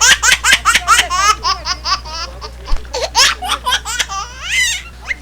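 Hearty laughter: a rapid, unbroken run of short 'ha' bursts, several a second.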